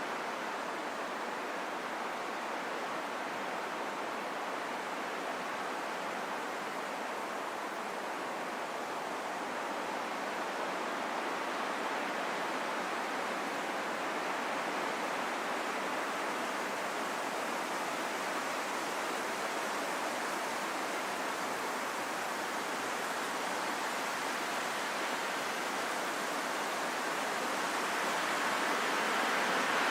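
Wind blowing in a steady, even rush with no gusts or whistles. It swells slowly and grows louder near the end.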